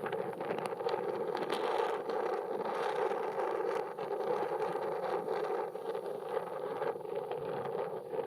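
Strong, gusty wind buffeting the microphone, over a steady drone from a Cessna light aircraft's piston engine in the distance.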